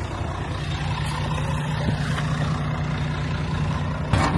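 Heavy diesel truck engine idling steadily, with a few sharp knocks near the end.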